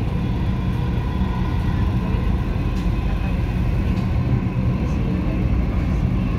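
Dubai Metro train running between stations, heard inside the carriage: a steady low rumble with a faint, even high whine above it.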